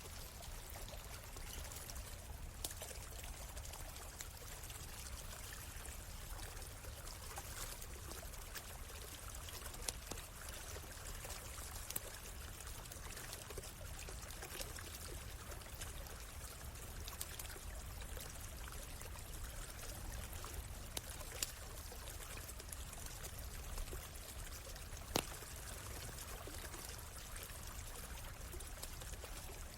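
Stream water flowing and trickling steadily, with scattered sharp pops and crackles from a wood campfire; one louder pop comes late on.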